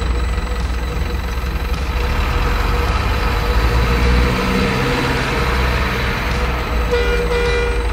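Heavy truck engine sound running as a steady low rumble, its pitch rising and falling around the middle, with a brief run of beeps near the end.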